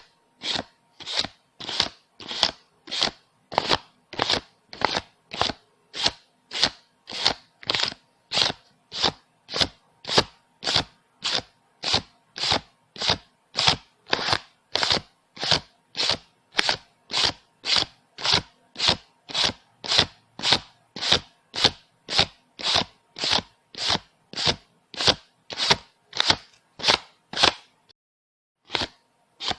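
Paper banknotes being counted one by one, each bill flicked with a short crisp rustle about twice a second in a steady rhythm, with a pause of about a second and a half near the end.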